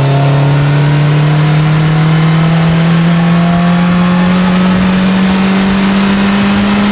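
2022 Polaris Slingshot's four-cylinder engine accelerating hard under throttle, its note rising slowly and steadily in one gear over a steady rush of noise.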